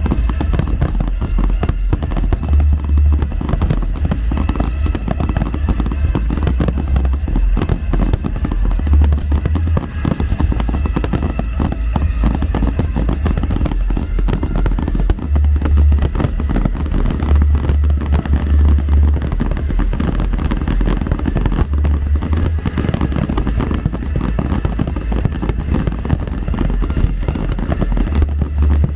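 Fireworks display: a dense, continuous barrage of aerial shell bursts and crackling, with deep booms recurring every few seconds.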